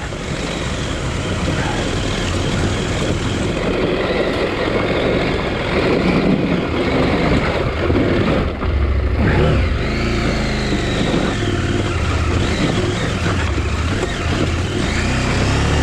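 KTM 890 Adventure R's parallel-twin engine revving up and down under load on a dirt hill climb, its pitch rising and falling several times.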